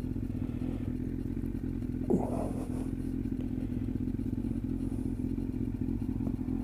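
Yamaha FZS Fazer 1000's inline-four engine running at a steady, unchanging pitch, with a short sliding sound about two seconds in.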